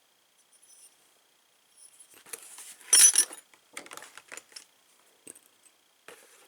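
Loose metal door-lock hardware clinking and rattling as it is handled and put into a box. It starts about two seconds in, with the loudest clatter about a second later, then lighter clicks.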